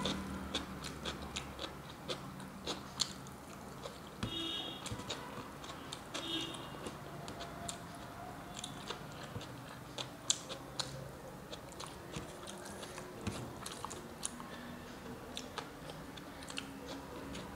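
Chewing with the mouth close to the microphone: a rice-and-curry meal eaten by hand, with a steady scatter of small wet clicks and smacks.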